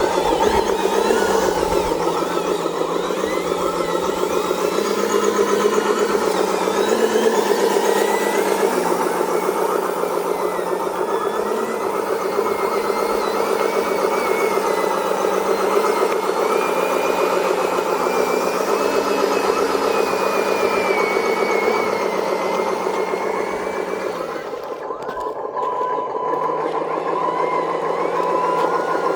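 Engine sound from the sound-simulator speaker of a 1/10 scale RC dump truck, imitating a heavy-duty truck engine and running steadily. About 25 seconds in it dips briefly, and a repeated high beeping tone joins in near the end.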